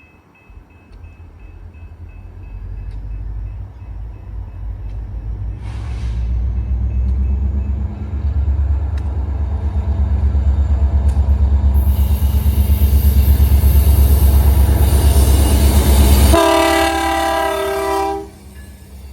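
Diesel train locomotives running, a deep engine rumble building up to loud. About three seconds before the end it gives way to a short blast of an air horn, several notes sounding together for under two seconds.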